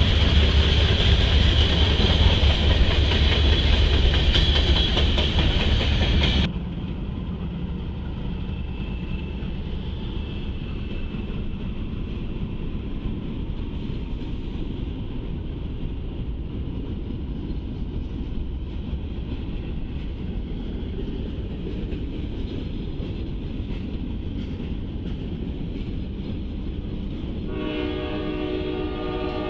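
A freight train of tank cars rolling loudly past on the tracks, cut off abruptly about six seconds in. Then comes the quieter, steady low rumble of Norfolk Southern diesel locomotives hauling covered hopper cars past. Near the end a locomotive air horn sounds, a chord of several notes.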